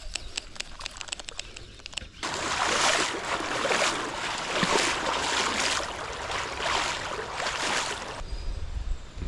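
A run of quick ticks, then creek water rushing and splashing loudly for about six seconds, starting and stopping abruptly.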